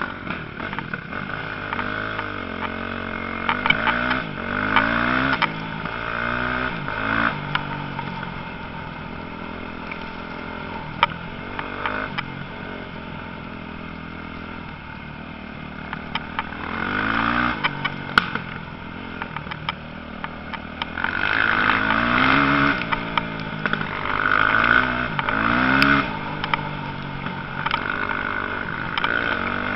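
Motocross motorcycles revving hard and running through the gears, the engine pitch climbing and dropping back again and again as bikes come past in waves. The loudest stretch is in the last third, with quieter engine noise between the waves.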